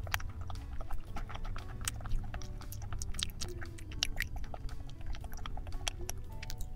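Close-miked chewing of a crumbly yellow-cheese cookie: a rapid, irregular run of small crunches and crackles from the crumbs. A low steady rumble sits underneath, with faint background music.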